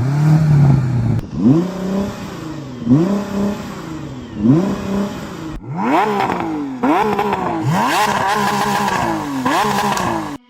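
High-performance car engine accelerating hard through the gears, its pitch climbing and dropping at each upshift. About halfway through the sound cuts to another car with a higher-pitched engine, also revving up through several quick upshifts.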